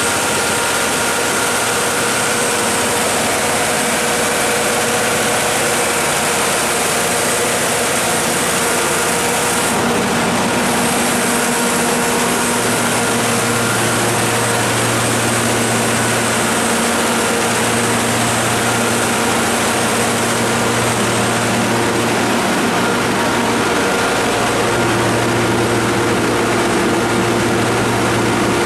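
Caterpillar 3208 V8 diesel engine of a 150 kW standby generator set running steadily.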